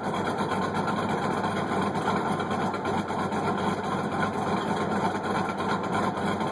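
A car engine idling steadily through a newly fitted exhaust with a Quietflow muffler and an electric exhaust cutout.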